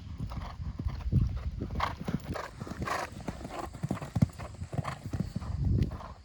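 Hoofbeats of a ridden horse moving around a riding arena, an uneven series of dull thuds.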